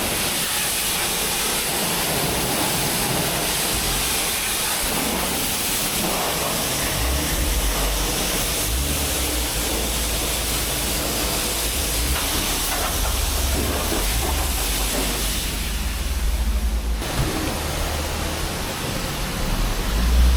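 High-pressure water spray from a self-service car-wash lance, a steady hiss with a low rumble underneath through the middle stretch.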